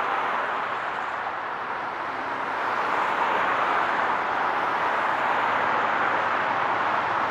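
Steady highway traffic noise: the rushing tyre and engine sound of a stream of passing vehicles, easing a little about a second in and building again around three seconds in.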